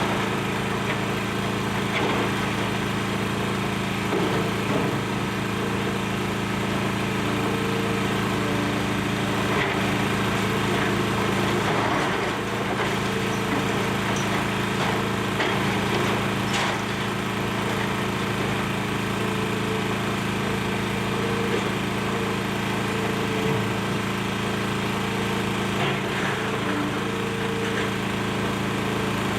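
Excavator's diesel engine running steadily under demolition work, with a few faint scattered knocks and cracks of breaking debris.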